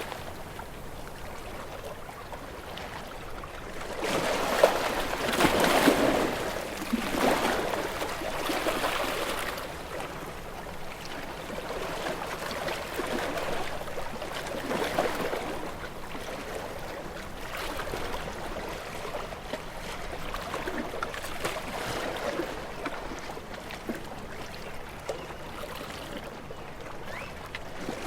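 Moving water in gentle, uneven surges: a steady wash that swells louder for a few seconds at a time, most strongly a few seconds in.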